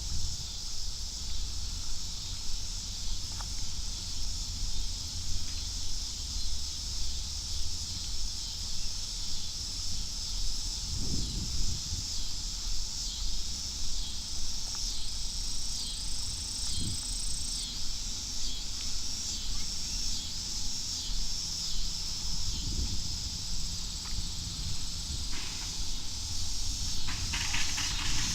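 Steady high-pitched chorus of insects, with a low rumble on the microphone that pulses about once a second.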